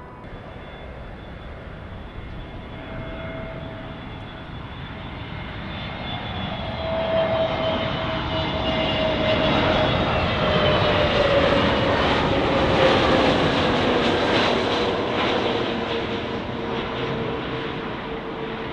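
Jet airliner passing close by: the engines grow louder to a peak about two-thirds of the way in, then fade, with a whine that drops slowly in pitch as the aircraft goes past.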